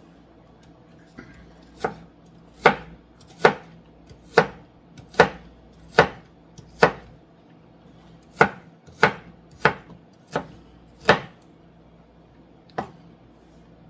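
Kitchen knife chopping an onion on a cutting board: about a dozen sharp chops, roughly one every second, with a short pause about halfway and a last chop near the end.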